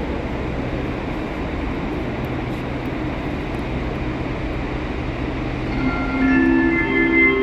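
A train moving in the station, a steady rumble with a low hum. About six seconds in it grows louder and several steady high-pitched tones come in.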